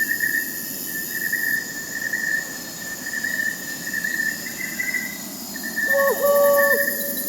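Crickets chirping in a steady pulsing trill, with a thin high insect whine above. Near the end an owl hoots: one short note, then a longer one that drops off at its close.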